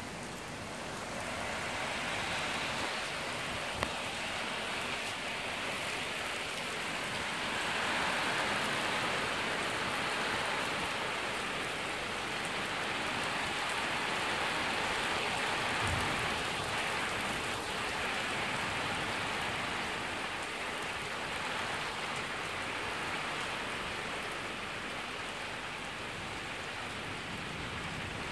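Heavy rain pouring down steadily, a dense hiss of drops that swells a second or so in and eases slightly near the end.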